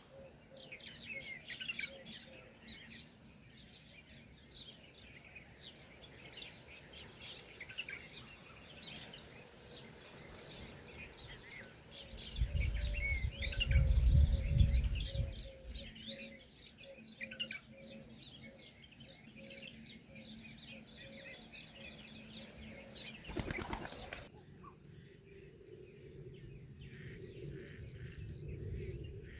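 Birds chirping in many short high notes, with a loud low rush of a few seconds about twelve seconds in that sounds like wings flapping.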